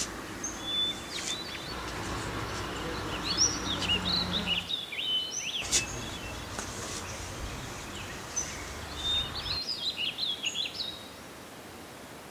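Songbirds chirping in quick, twittering phrases, in two busy flurries, over a low, steady background rumble.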